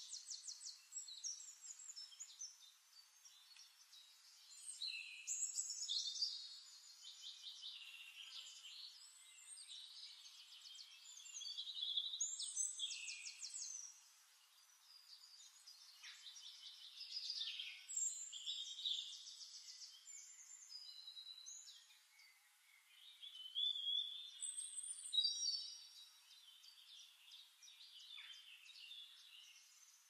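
Songbirds singing: varied high chirps, rapid trills and short whistled phrases, one after another with brief pauses.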